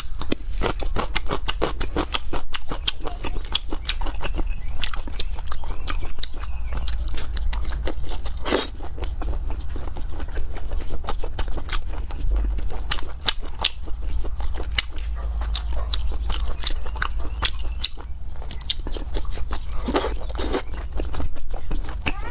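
Close-up chewing of glazed pork belly: a steady run of small mouth clicks, with a few louder bites or mouth sounds near the middle and near the end.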